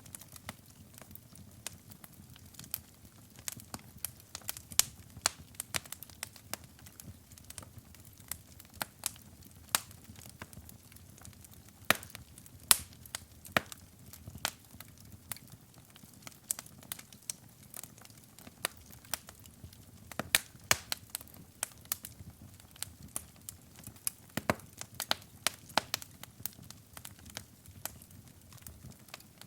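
Wood fire in a fireplace crackling, with irregular sharp pops and snaps of varying loudness over a steady low rumble of burning.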